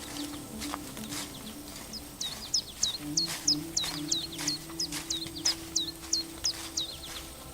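A small songbird singing a long run of quick, high notes, each a sharp downward sweep, about three a second, starting around two seconds in. Soft, sustained music tones play underneath.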